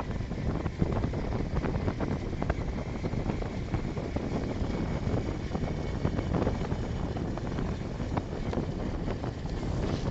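Low rumbling noise of a moving vehicle with wind buffeting the microphone, broken by scattered short knocks and clicks.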